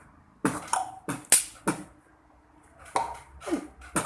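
Beatboxing: a quick run of sharp mouth-made percussive hits, then a short pause and a second run of hits.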